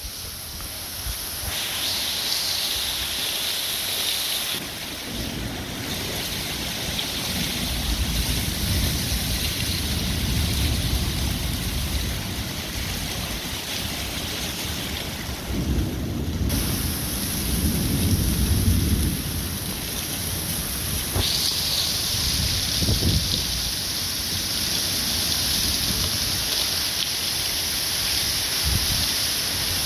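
Thunderstorm with heavy wind-driven rain hissing steadily. Low rumbles swell and fade several times, the strongest a little past the middle, and the rain grows louder near the end.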